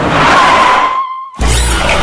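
An edited-in sound effect: a loud noise rush with a single high whistle-like tone held through it, which cuts off abruptly after about a second and a quarter. Electronic music comes in right after.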